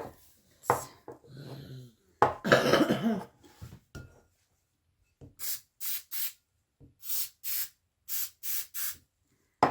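Birdseed mixture being scooped and scraped in a bowl: a crunchy rustle in the first few seconds, then a run of short scraping strokes, about two or three a second.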